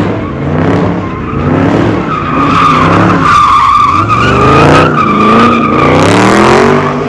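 Car doing donuts: the engine revs up and down over and over while the rear tyres squeal. The squeal sets in about two seconds in and holds until near the end.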